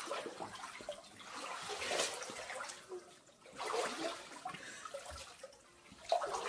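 Floodwater sloshing and splashing as someone wades through it inside a flooded house, in surges about every two seconds.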